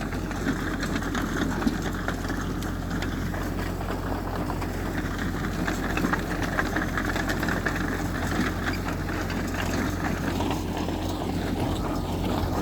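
Heavy diesel engine of earthmoving machinery running steadily, with scattered small clicks and knocks.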